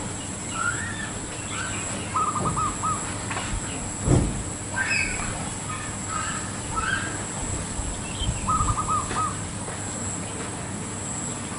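Zebra dove (perkutut) cooing in a tree: a quick run of even staccato notes, heard twice, about two seconds in and again near nine seconds. Other small birds chirp around it, and there is a low thump about four seconds in.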